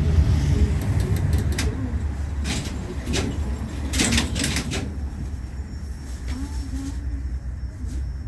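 LVS-86K articulated tram running, heard from inside the passenger cabin: a deep rumble with a run of sharp clicks and rattles in the first half, the rumble easing off toward the end.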